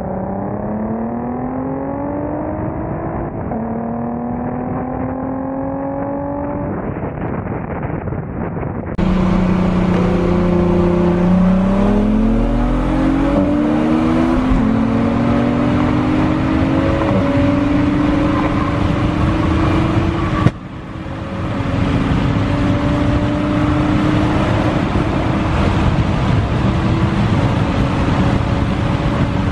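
Car engine accelerating hard through the gears, its pitch climbing and falling back at each upshift. It gets louder about nine seconds in, and a sudden sharp crack about two-thirds through is followed by a brief dip before the engine settles to a steady note.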